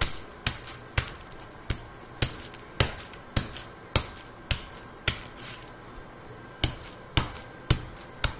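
Repeated sharp knocks, about two a second with a short pause a little past halfway: a packet of sprinkles being pounded to crush them.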